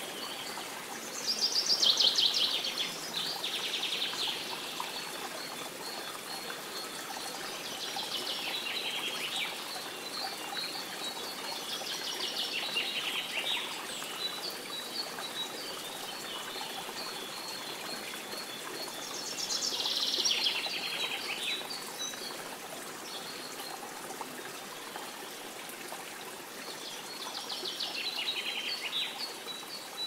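A songbird singing short trilled phrases about every six to seven seconds, with faint thin notes between them, over a steady background hiss.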